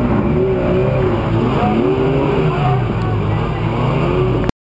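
Toyota 4x4's engine revving up and down under load as it crawls up a waterfall, its pitch rising and falling unevenly. The sound cuts off abruptly near the end.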